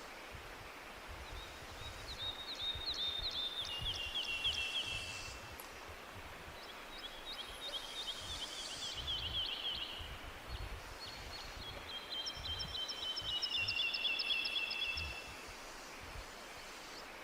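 A songbird singing three fast trilled phrases, each lasting a few seconds and stepping down in pitch toward its end, over a steady low outdoor rumble.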